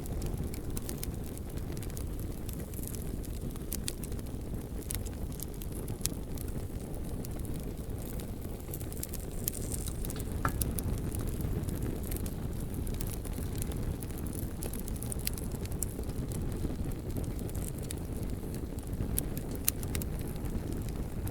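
Bonfire burning: a steady low rumble of flames with scattered sharp crackles and pops from the burning logs, one louder pop about halfway through.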